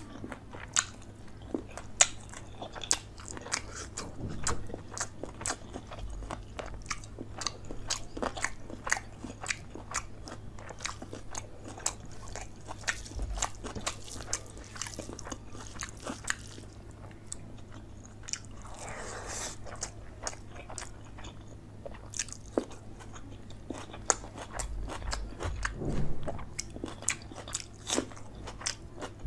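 Close-miked eating sounds: biting and chewing chicken leg curry and rice, heard as many short sharp mouth clicks and crunches. A hand mixes the rice into the curry on the plate partway through.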